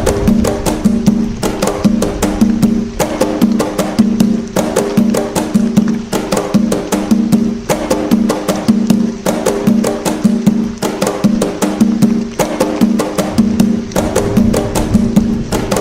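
Atabaque hand drums playing the toque nagô, a Candomblé/Umbanda rhythm: a busy run of sharp hand strikes over ringing, pitched drum tones, in a cycle that repeats about every second and a half.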